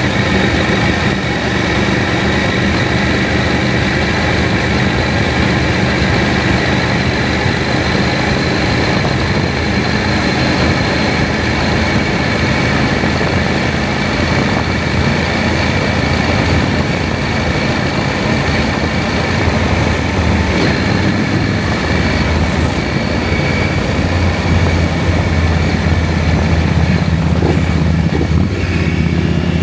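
KTM 790 Adventure's parallel-twin engine running steadily under way, with wind and road noise. The engine note begins to rise near the end as the bike accelerates.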